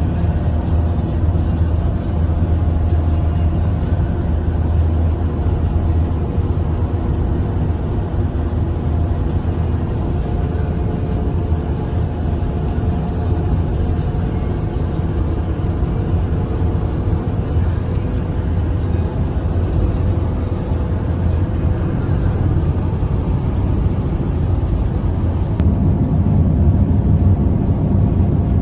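Steady low rumble of a road vehicle driving: engine and road noise, strongest in the bass, with a slight swell in the low end near the end.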